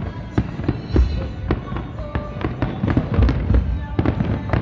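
Aerial firework shells bursting in rapid, irregular succession at a finale: heavy deep booms mixed with many sharp cracks, several a second.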